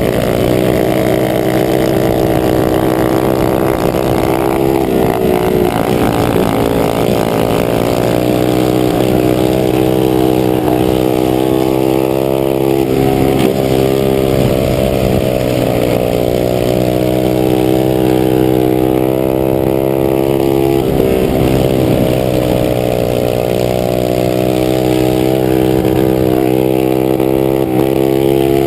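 Small minibike engines running hard together at high revs, a buzzy motor sound whose pitch drops and climbs again every several seconds as the bikes lap the circle track.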